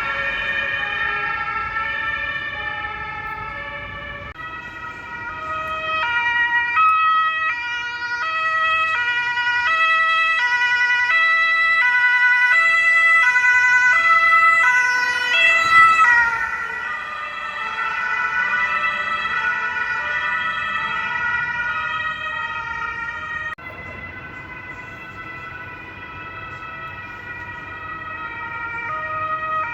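Two-tone German police sirens (Martinhorn) of several patrol cars on an emergency run, sounding over each other. The two-tone call swells to its loudest in the middle, the pitch drops at about sixteen seconds as a car passes, and the sirens turn quieter from about twenty-three seconds in.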